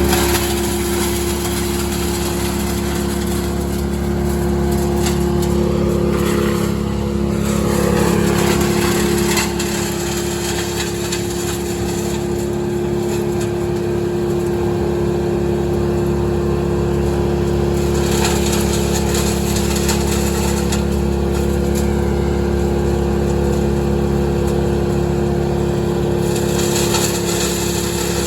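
An engine running steadily at constant speed, with a brief swooping change in pitch about seven seconds in.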